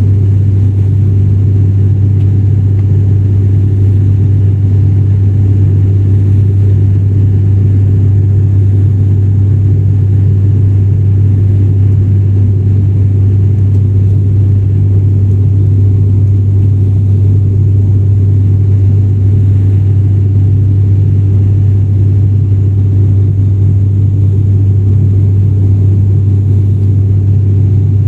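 Steady, loud drone of an ATR turboprop airliner's propellers and engines heard from inside the passenger cabin: a low hum with a rumble beneath, unchanging throughout.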